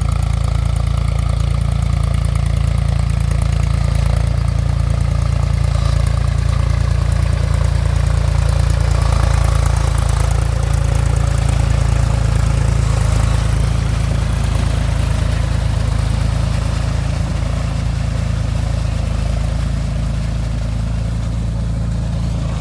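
Mahindra 275 TU tractor's diesel engine running steadily, a deep, even drone that eases slightly near the end.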